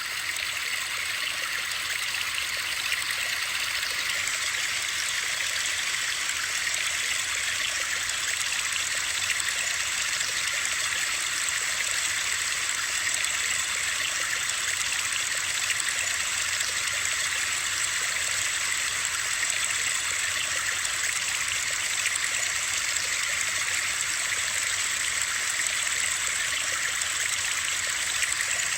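Steady, unbroken hiss of running water, bright and high-pitched with little low rumble.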